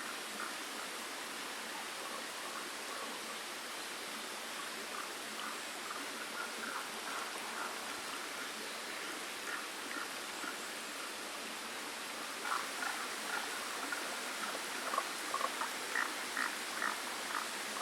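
A creek flowing steadily, with runs of short, repeated chirping calls from a small animal joining in and getting louder about two-thirds of the way through.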